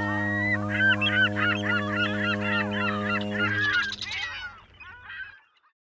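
A clamour of birds calling, many short quick calls, over a steady low held tone that stops about four seconds in; the calls then thin out and fade.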